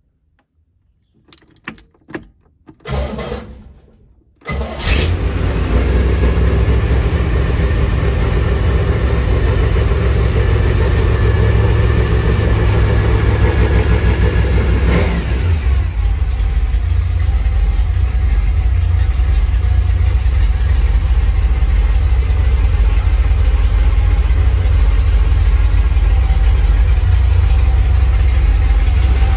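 Corvette Sting Ray's V8 being started: the starter turns it over in a few short bursts, then it catches about four and a half seconds in and runs steadily. About fifteen seconds in, the engine speed falls to a lower, settled idle.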